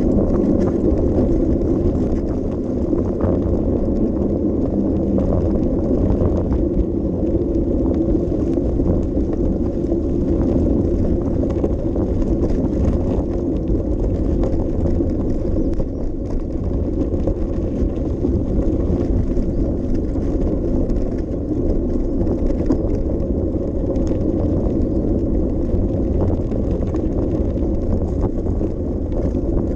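Bicycle ride heard through a GoPro: a steady low rumble of tyres rolling on the path, with light scattered clicks and rattles.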